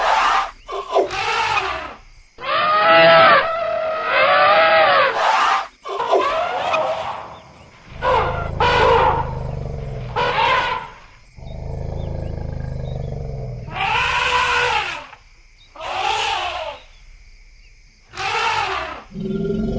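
Elephants trumpeting and roaring, a dozen or so separate calls of one to two seconds each, each rising and falling in pitch. A low rumbling runs under the calls in the middle.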